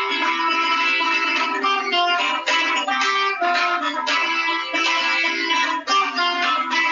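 Buzuq, the long-necked Lebanese lute, played solo: a quick melody of plucked metal strings, note after note ringing on.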